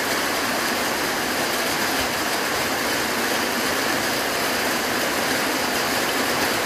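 Steady rain shower, with water streaming off the edge of a corrugated roof overhead.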